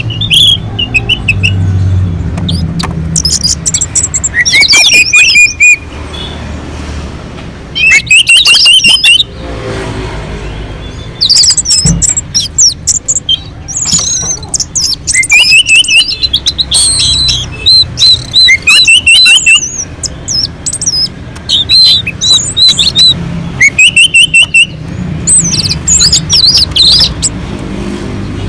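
Orange-headed thrush singing loudly in quick, varied phrases of whistled notes and trills, phrase after phrase with short pauses between, over a low rumble.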